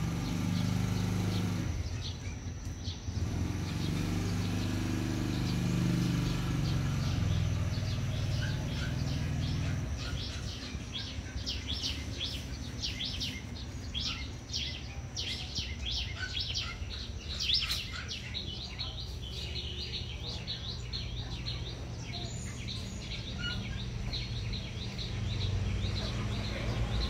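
Small birds chirping in many short, high calls, thickest from about ten seconds in, over a steady low hum that is strongest in the first few seconds.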